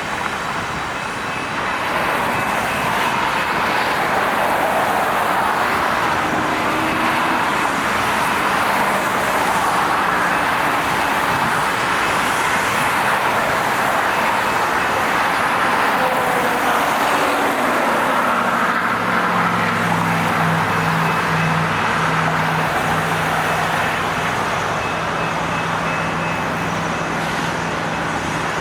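Freight train with a multi-locomotive diesel consist passing: a steady, loud rumble of engines and wheels on rail, with a deeper steady hum joining about two-thirds of the way through.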